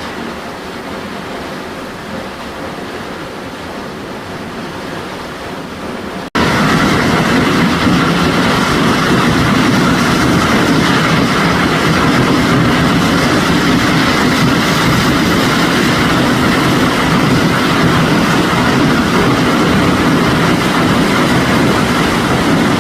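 Steady roar of a waterfall's rushing, plunging water. About six seconds in, it cuts abruptly to a much louder roar.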